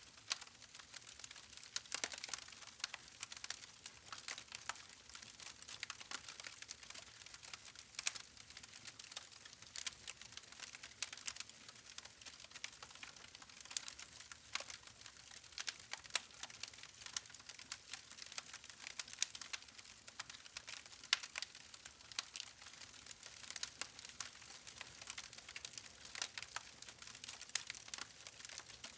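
Campfire crackling: irregular snaps and pops from burning logs, many a second, over a quiet hiss.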